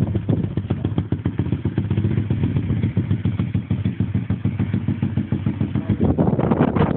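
Pit bike's small motorcycle engine running steadily with rapid even firing pulses, briefly louder near the end.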